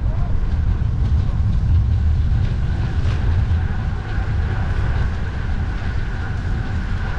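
Steady wind rumble on the microphone of a moving bicycle, over the continuous noise of road traffic.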